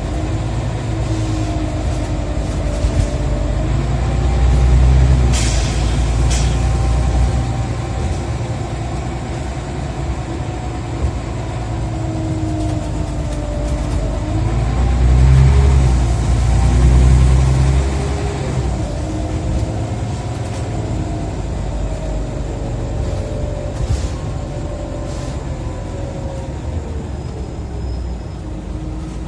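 Scania OmniCity single-deck bus heard from inside while pulling hard: the engine and ZF automatic gearbox whine rise and then step down through several gear changes. The low engine rumble swells loudest twice, with a few brief sharp clicks or hisses now and then.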